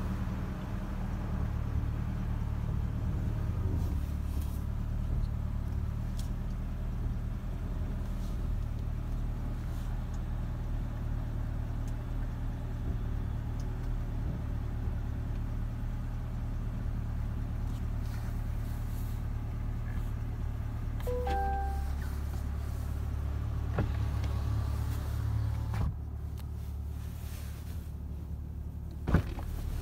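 A Corvette C8's V8 engine idling, heard from inside the cabin as a steady low hum that shifts about two-thirds of the way through. There are a few short high tones about two-thirds through and a sharp click near the end.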